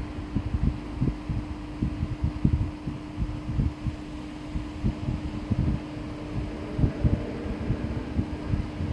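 A steady low hum runs throughout, under irregular low rumbling and soft knocks.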